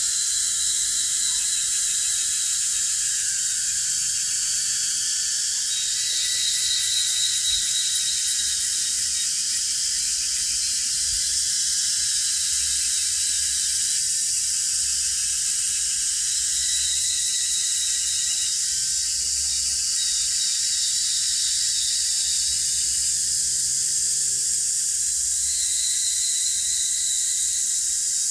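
Cicadas singing in a dense, continuous chorus, a steady high shrill hiss with a brighter whine that swells and fades now and then.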